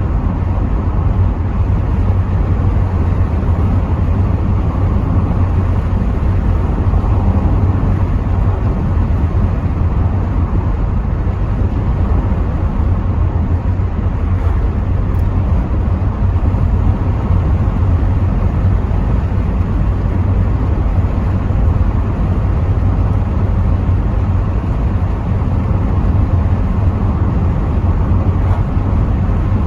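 Rover 75 V6 estate on the move, heard from inside the cabin: a steady low rumble of road, engine and wind noise, with air coming through partly open windows.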